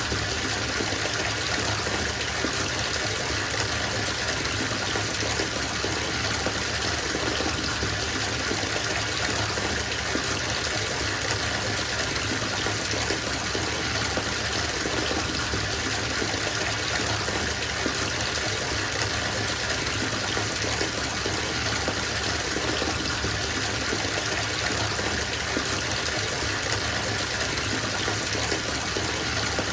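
Water running steadily from a tap into a bathtub as it fills, an even splashing rush with no change.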